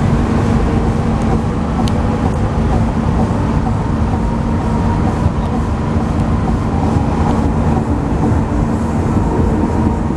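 A large engine running steadily: a loud, even low rumble with a constant hum.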